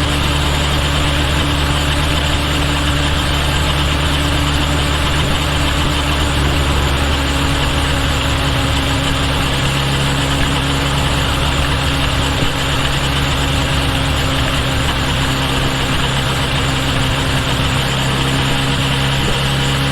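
Kawasaki Ninja H2 SX's supercharged inline-four engine running steadily at low revs, with small shifts in pitch, heard close up from a microphone at the rear turn signal.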